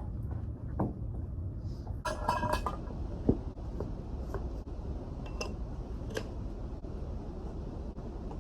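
Scattered light clinks and knocks of small hard objects over a steady low hum, with a short run of ringing clinks about two seconds in.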